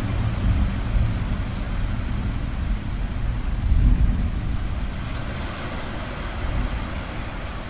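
Ocean waves washing under a deep rumble of distant thunder that swells about four seconds in and then slowly fades.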